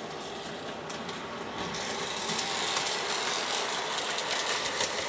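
O scale Scale-Craft New York Central Hudson model steam locomotive running along its track with its train: a steady mechanical whir of motor, gearing and wheels on rail. It gets louder about two seconds in, with a few light clicks.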